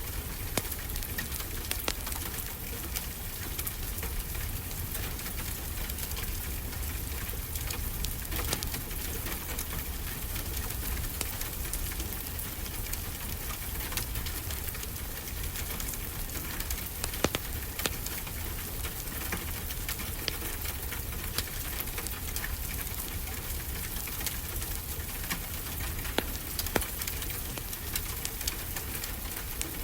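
Wood fire crackling with scattered sharp pops, a few louder ones later on, over a steady wash of ocean surf.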